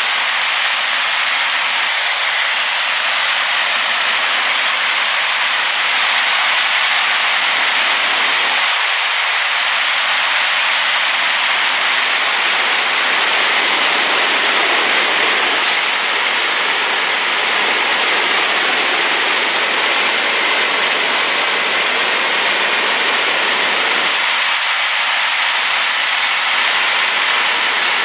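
Waterfall in spate after rain, a steady loud rushing of falling water that is even and unbroken, with little deep rumble.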